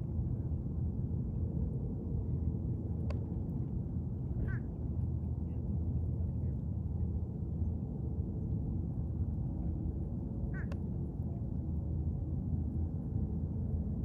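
Short bird calls, two of them about four and a half and ten and a half seconds in, over a steady low rumble, with a single sharp click about three seconds in.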